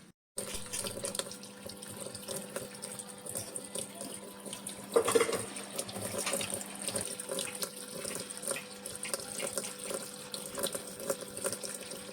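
Water running steadily into an automatic washing machine through its inlet valve, with a steady hum beneath it. There is a louder surge of water about five seconds in.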